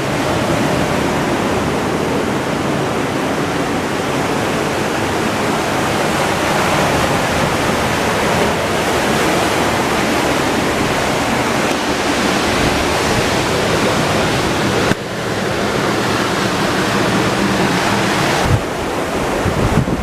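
Ocean surf breaking on the beach: a steady, continuous rush of waves, with abrupt breaks in the sound about 15 and 18 seconds in.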